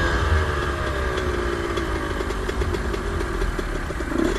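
Suzuki RM125's two-stroke single-cylinder engine idling, its pitch slowly sinking as the revs settle over the first few seconds.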